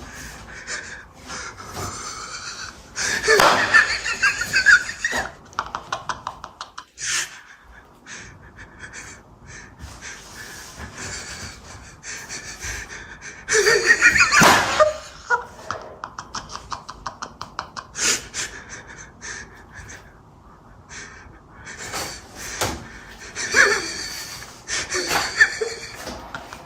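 People gasping and breathing hard, breaking into stifled laughter in three louder bursts: a few seconds in, about halfway, and near the end.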